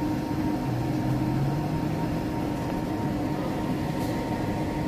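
Steady running noise inside a passenger train carriage as it pulls slowly away from a station, with a constant low hum and a fainter, higher steady tone.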